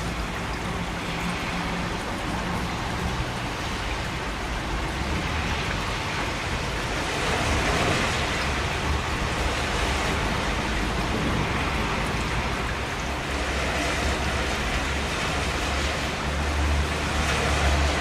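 Steady rain, a dense even hiss of many drops, with a low rumble underneath that grows a little stronger near the end.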